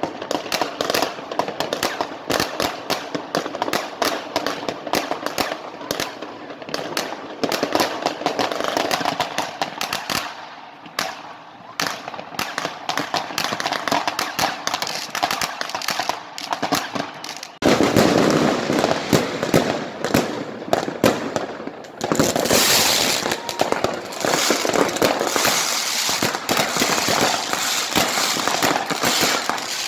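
Fireworks and firecrackers going off: a dense, continuous barrage of overlapping bangs and crackling. It grows louder and thicker a little past halfway, and again about three quarters of the way through.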